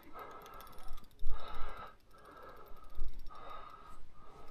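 A person breathing hard close to the microphone, in repeated noisy breaths of just under a second each, with a few low thumps.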